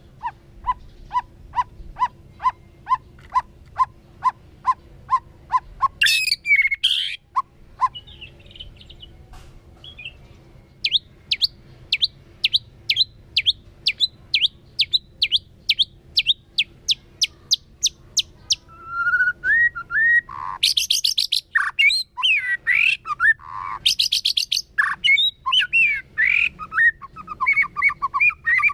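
White-rumped shama singing: a run of evenly repeated low whistled notes, about three a second, then a loud varied phrase, a series of high falling notes, and dense varied phrases with rapid trills near the end.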